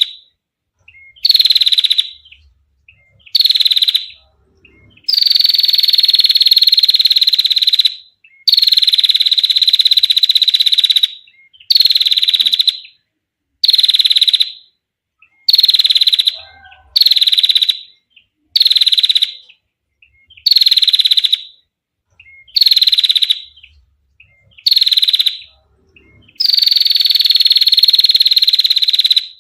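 Female prinia (prenjak) giving its long, high trills over and over, about fourteen bursts separated by short silences, most under a second and three drawn out to about three seconds.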